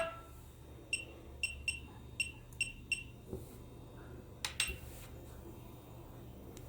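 A series of six or seven short, high electronic beeps at a single pitch, irregularly spaced over about two seconds, followed by a couple of sharp clicks.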